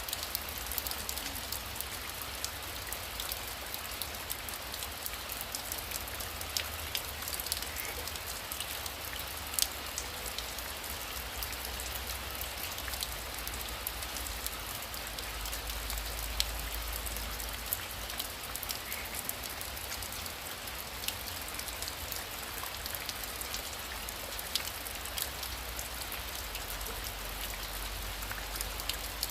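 Heavy rain falling steadily, with sharp hits of single drops scattered all through it.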